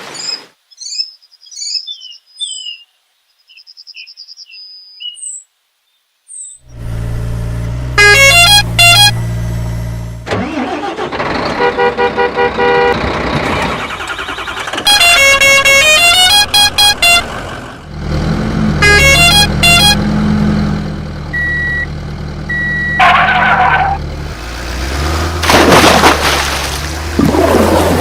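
Toy or cartoon truck sound effects. Small high chirps at first, then a steady engine rumble with several bursts of horn honks and stepping, tune-like beeps.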